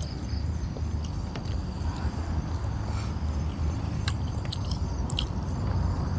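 A person chewing food close to the microphone, with a few sharp crunches about four to five seconds in. Under it are a steady low rumble and the constant high chirring of crickets.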